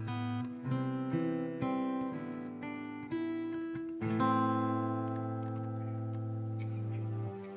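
Acoustic guitar accompaniment playing a series of plucked and strummed chords, then a chord held from about four seconds in that fades out shortly before the end.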